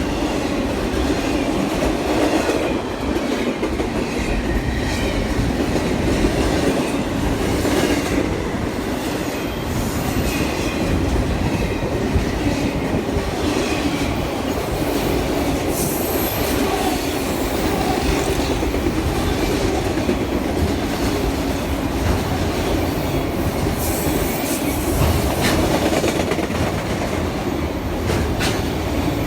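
Railroad cars rolling past on the track in a steady, continuous rumble, with clickety-clack from the wheels over the rails and faint, wavering wheel squeal.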